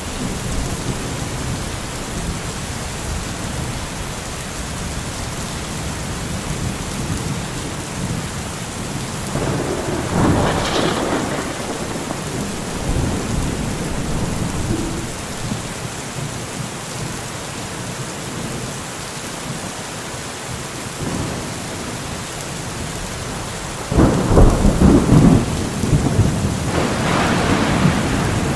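Steady rain with two rolls of thunder: one about ten seconds in, and a louder one that breaks out suddenly near the end.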